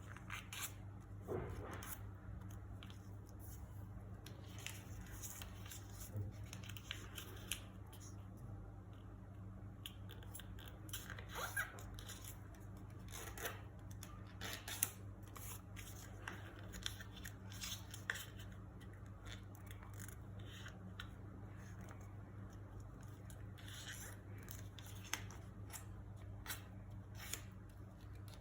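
A sheet of origami paper being handled and folded by hand: irregular soft crinkles, rustles and creasing clicks, over a steady low hum.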